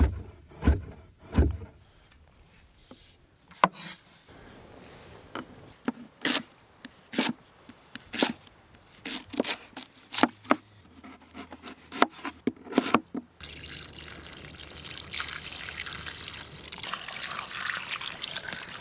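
Irregular sharp knocks for about thirteen seconds, then water pouring steadily, filling a pot for vegetable broth.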